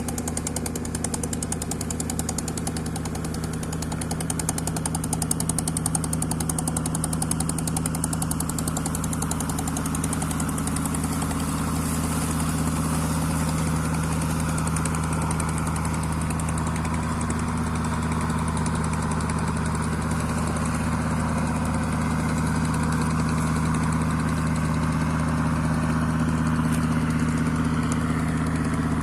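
A fishing boat's engine running steadily at constant speed: a low hum with a fast, even chugging. A rushing hiss builds up about halfway through.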